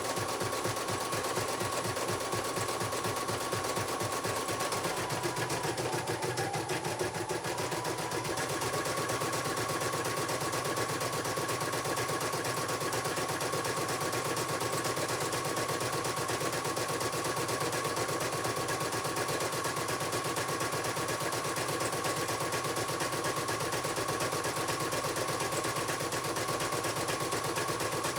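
CNY computerized embroidery machine stitching a test design, its needle bar hammering in a rapid, even rhythm with a steady motor whine. The pitch dips briefly about six seconds in, then returns to speed.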